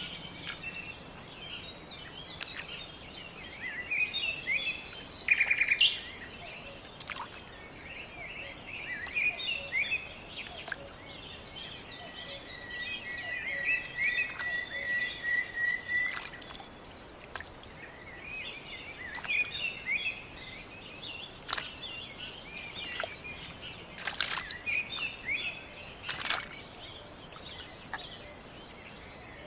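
Several birds singing and calling, with repeated short high chirps and a sustained trill about halfway through, over a light outdoor background hiss. A few sharp clicks break in here and there.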